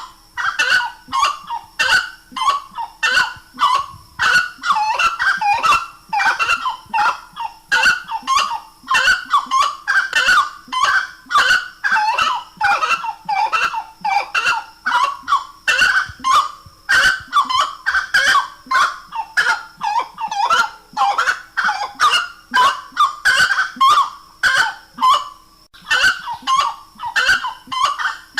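Grey-cowled wood rail (saracura-três-potes) calling: loud, honking call notes repeated rapidly in a continuous series.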